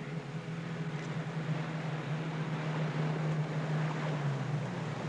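A small boat's motor running steadily with a low hum, over a rush of wind and water.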